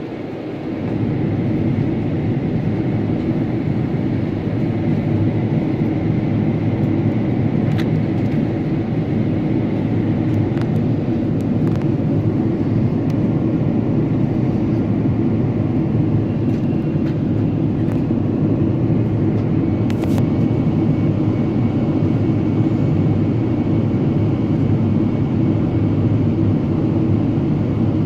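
Steady low rumble of a Boeing 777-300ER's engines and airflow, swelling over the first second or two and then holding level, with a faint steady high whine over it.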